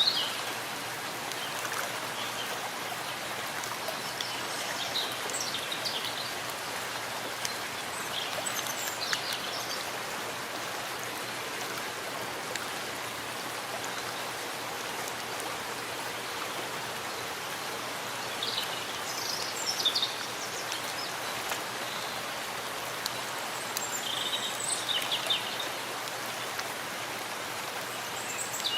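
Steady rain falling in a forest, an even hiss of drops with running water beneath it. Short high bird chirps come through now and then, about four times.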